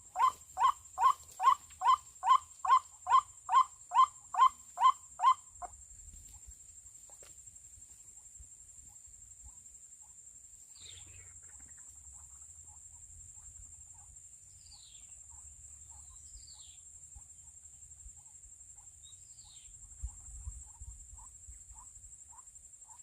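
White-breasted waterhen calling: a loud series of identical notes, about two and a half a second, that stops abruptly about six seconds in. A steady high insect drone runs throughout.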